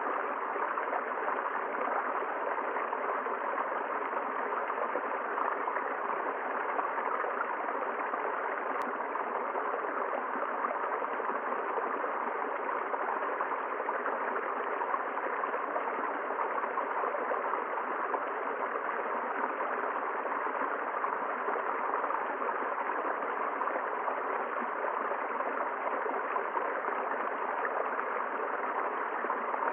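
A river flowing over rocks, a steady, unbroken rush of water.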